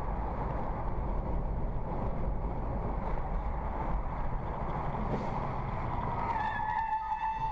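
Car on the road: steady engine and road noise. About six seconds in, a sustained high tone joins in and holds.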